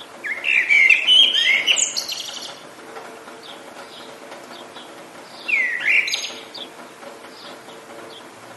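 Songbirds singing: two loud warbled song phrases, the first about two seconds long and the second shorter, about five seconds in, with fainter short chirps from other birds between them, over a steady hiss of rain.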